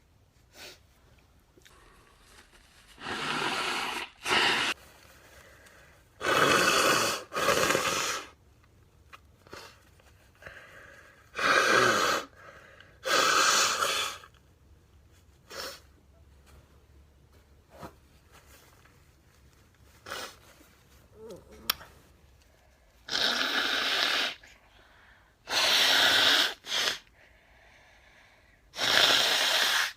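A girl blowing her nose into a tissue: about ten hard blows of roughly a second each, mostly in pairs, with short pauses between.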